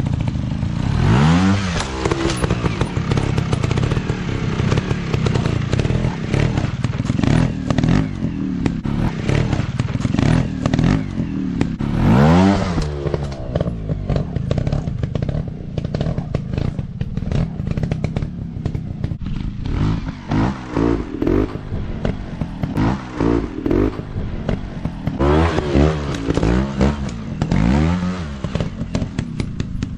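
Dirt bike engine running and revving in repeated throttle bursts, its pitch rising sharply about a second in, again around twelve seconds, and in several quick blips toward the end. Rattling and knocking sounds run under it.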